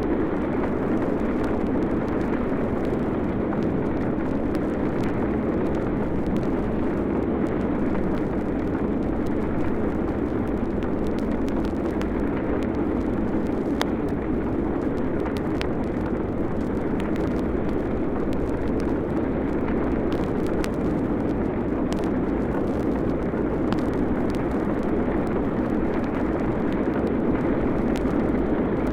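A steady, deep roaring rumble, a recorded disaster sound effect, holding level throughout, with scattered faint clicks from the vinyl record.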